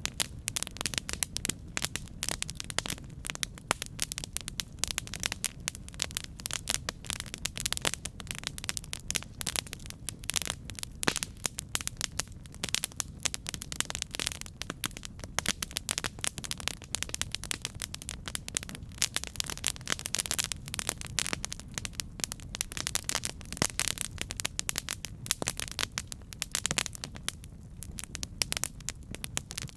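Campfire burning with dense, irregular crackling and popping over a steady low rumble of the flames.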